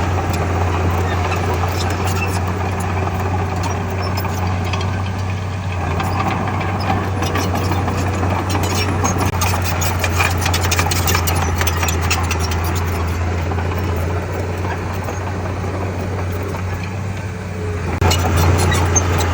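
Heavy diesel earthmoving machinery running steadily with a deep, even engine hum. Rapid clicking and clatter join it in the middle, and it grows louder near the end.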